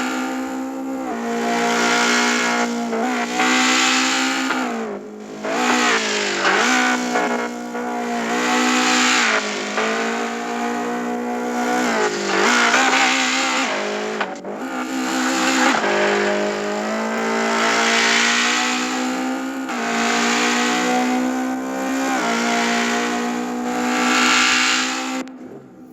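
Toyota AE86's 4A-GE 16-valve four-cylinder engine revving hard again and again, its pitch climbing and falling back in waves about every two seconds. The sound drops away sharply near the end.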